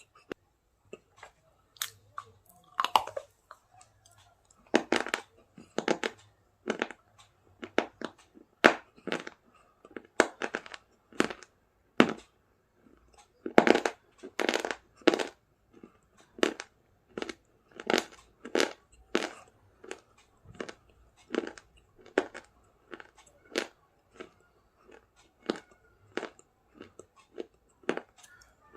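Close-up mouth sounds of someone biting and chewing a hard, brittle food: sharp crunches come one or two a second, with short pauses between bites.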